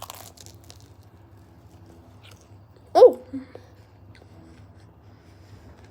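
Biting into a crunchy Little Caesars Crazy Puff at the start, then quiet chewing with the mouth full. About three seconds in, a loud "Oh!" breaks through the chewing.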